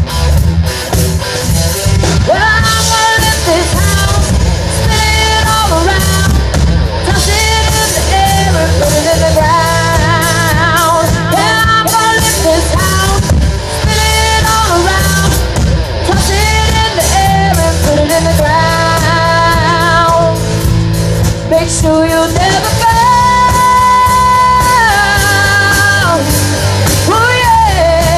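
Live rock band playing, with a singer's voice carried over electric guitar, bass and drums.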